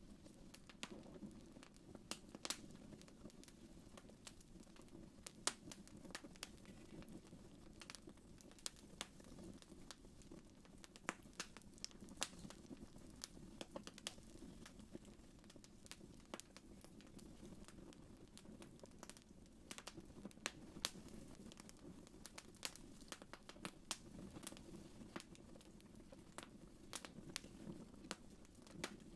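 Wood fire crackling in a fireplace, faint: irregular sharp pops and snaps over a soft, steady low rush from the burning logs.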